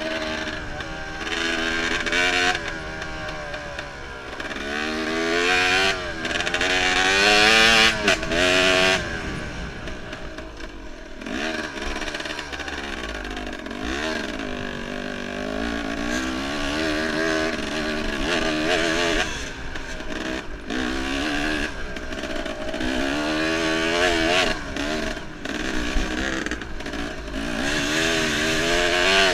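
Enduro motorcycle engine under hard riding, its pitch rising and falling again and again as the throttle is opened and closed, with a few knocks and rattles along the way.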